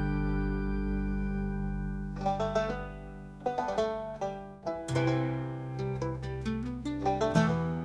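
Instrumental break in a country-style song: a held chord fades, then a plucked-string melody of quick picked notes begins about two seconds in and carries on over a low bass.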